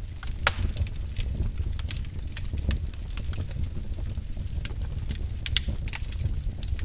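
Wood fire burning in a fireplace: a steady low rumble of flames with irregular crackles and sharp pops of burning logs, two louder pops about half a second in and near the end.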